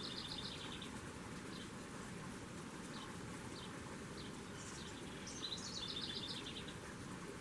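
A songbird singing a short trill of rapid notes twice, about five seconds apart, with a few single chips in between, over a steady outdoor hiss.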